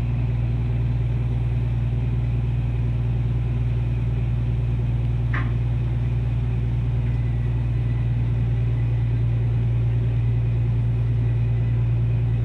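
Steady low drone of a ship's engine machinery, heard on board, holding an even pitch throughout, with one short high chirp about five seconds in.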